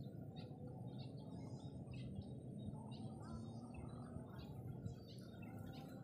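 Small birds chirping in short, high, repeated notes, faint over a steady low rumble of outdoor background noise.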